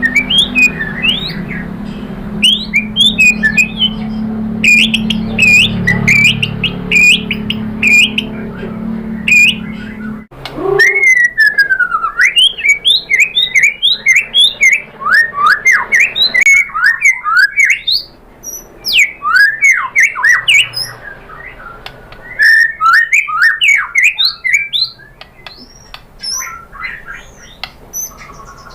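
White-rumped shama (murai batu) singing fast, loud runs of short whistled and chirping notes, many of them quick upward flicks, with brief pauses between phrases. A low hum underneath cuts off suddenly about ten seconds in, where one long falling whistle begins a new phrase.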